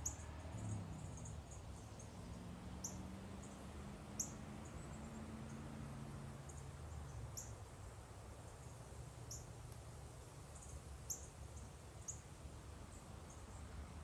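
Faint, high, short call notes from small birds, one every second or two at irregular intervals, over a low steady rumble.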